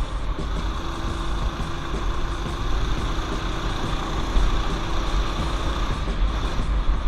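A mini bike's small single-cylinder engine running steadily on a trail ride, with wind rumbling on the microphone.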